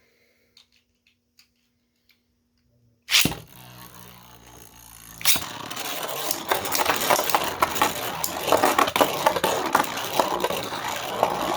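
3D-printed Beyblade spinning tops set off into a plastic stadium: a sharp click about three seconds in, a brief hum, then from about five seconds in a continuous clattering rattle of the tops spinning and knocking against each other and the stadium.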